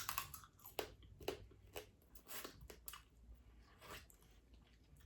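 Close-miked eating sounds of a seafood boil being chewed: a run of soft, scattered clicks and crunches.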